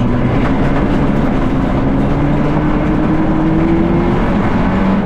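Turbocharged 1.4-litre four-cylinder engine of a Fiat Egea rally car, heard from inside the cabin under hard acceleration. Its pitch rises slowly through one gear for about four seconds, then drops at a gear change near the end, over steady road noise.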